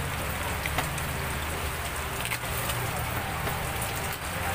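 Steady rain falling, with a few short crunching clicks as a rolling pizza wheel cuts through a baked pizza crust.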